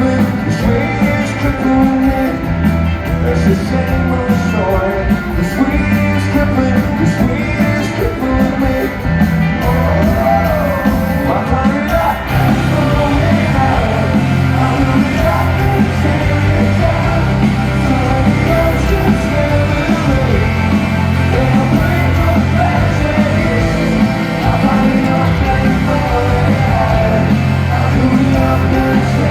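A rock band performing live with a sung vocal, loud and continuous.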